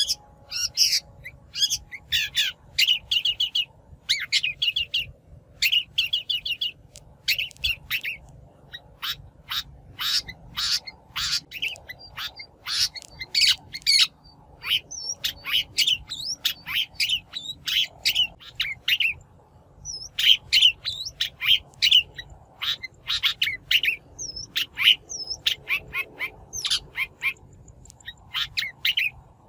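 A shrike giving harsh, chattering calls in quick runs of short notes, with brief pauses between the runs. It is a natural shrike voice of the kind played as a lure call.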